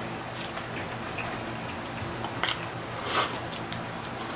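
Close-up eating sounds: chewing and a few short crunches of crispy fried pork and fish eaten by hand, the loudest crunch about three seconds in, over a low steady hum.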